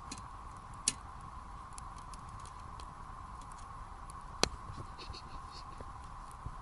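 Wood fire crackling, with scattered small ticks and two sharp pops, about a second in and past the middle.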